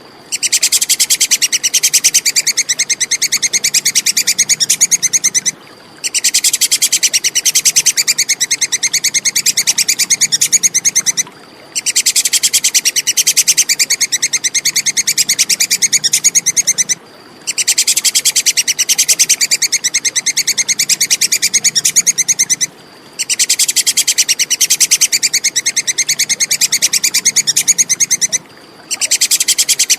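Tupai kekes squirrel chattering: bouts of rapid, high-pitched clicking calls, each about five and a half seconds long, broken by short pauses at even spacing about every six seconds.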